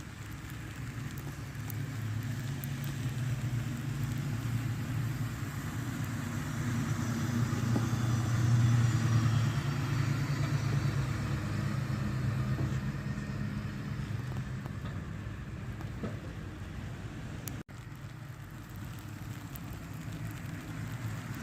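A bus's diesel engine running low as it approaches and passes along a snowy road, growing louder to a peak about eight or nine seconds in and then fading away.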